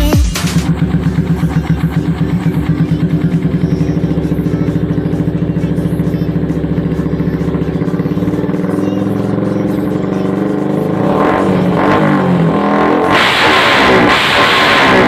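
Yamaha Vixion's single-cylinder four-stroke engine idling through an aftermarket racing exhaust with a steady pulsing beat, then revved up in surges over the last few seconds.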